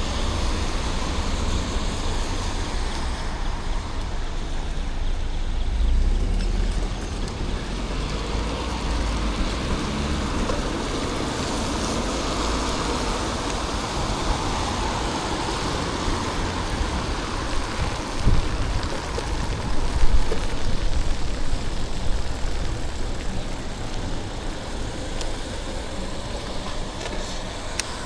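City road traffic, with cars passing in a steady wash of noise and a constant low rumble underneath.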